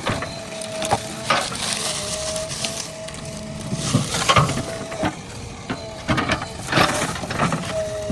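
JCB backhoe loader clearing land: irregular crunching and cracking of brush and wood, over a steady machine whine that breaks off now and then.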